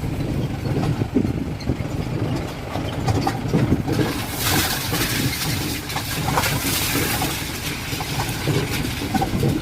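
An engine running steadily, with a spell of hiss over it about halfway through.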